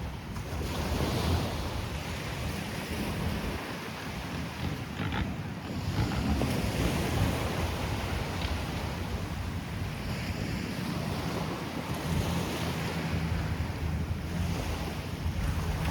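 Small waves washing onto a sandy beach, rising and falling in gentle swells, with wind buffeting the microphone and a low steady drone underneath.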